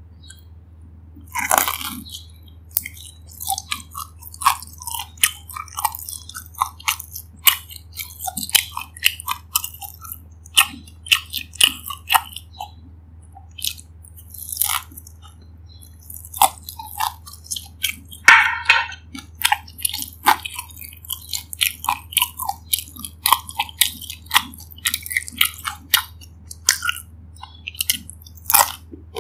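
Close-miked biting and chewing of crispy batter-fried dumplings: a dense, irregular run of crunches and crackles, with loud bites about a second and a half in and again around eighteen seconds.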